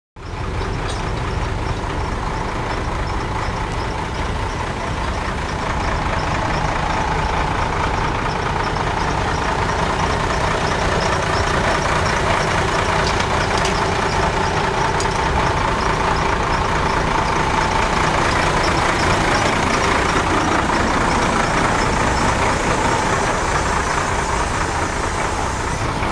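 Heavy construction machinery running steadily, a continuous engine noise with a faint, evenly repeating high-pitched chatter over it.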